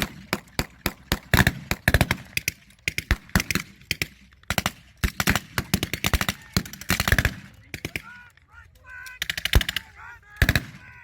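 Blank-firing guns in a WW2 reenactment mock battle: a rapid series of shots and short bursts for about seven seconds, then a lull with shouting voices and two more shots near the end.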